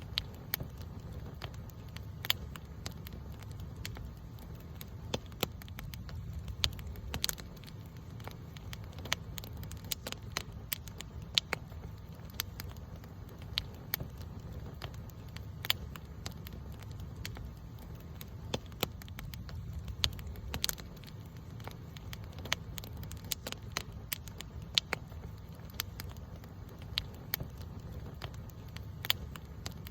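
Campfire burning: irregular sharp crackles and pops from the burning wood, several a second at uneven intervals, over a steady low rumble.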